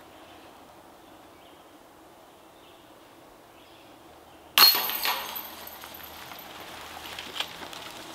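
A disc striking a metal disc golf basket about four and a half seconds in: a sudden loud hit, then metallic chain-and-cage ringing that dies away over about a second.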